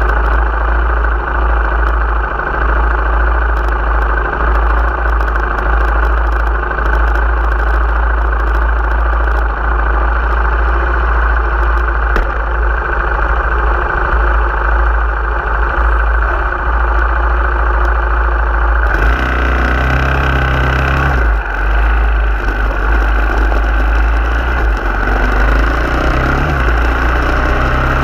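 Car engine idling, heard from inside the cabin, with a steady low rumble. About two-thirds of the way through the car pulls away, and the engine note rises and drops in steps through the gear changes.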